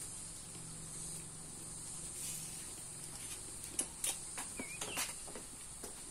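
Steady high-pitched insect chorus, with a cluster of short sharp clicks a little over halfway through.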